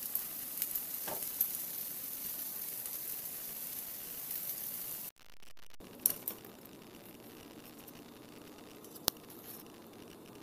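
Shrimp fritters (ukoy) frying in hot oil in a pan: a steady sizzle with a few light taps of a utensil, cut off suddenly about halfway. Then a quiet stretch with one sharp click.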